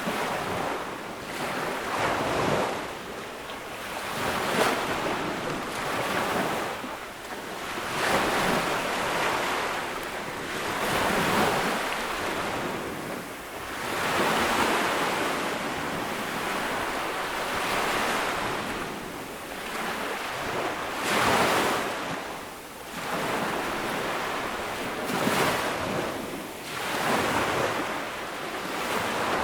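Small ocean waves breaking and washing up the beach, a continuous hiss of surf that swells and ebbs every few seconds.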